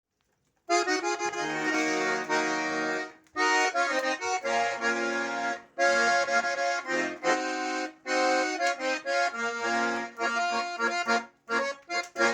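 Russian garmon (button accordion) playing a lively chanson tune, chords over bass notes, in phrases with short breaks between them. This is the instrumental opening before the singing comes in.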